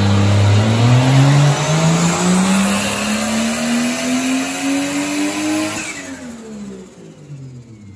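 Turbocharged Toyota 2JZ-GTE inline-six making a full-throttle dyno pull at about 12 psi of boost on 91 octane. The revs climb steadily for about five seconds, then drop away quickly as the throttle is lifted, and the engine sound fades near the end.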